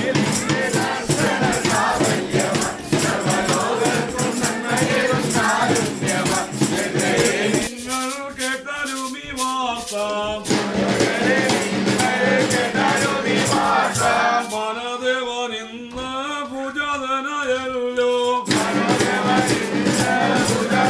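Group of carolers singing a Malayalam Christmas carol to fast shaken-rattle percussion. The percussion drops back twice, leaving the voices more exposed for a few seconds each time.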